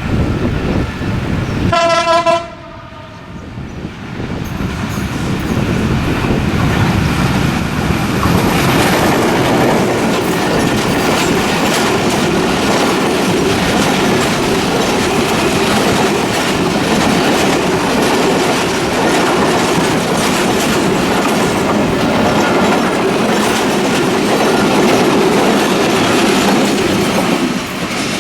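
Banglabandha Express passenger train: a short horn blast about two seconds in, then the train's wheels clattering along the rails as the carriages run past for over twenty seconds, easing off near the end.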